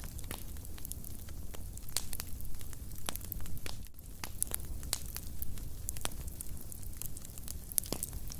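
Fire burning in a fireplace, crackling with many irregular sharp pops and snaps over a steady low rumble of the flames.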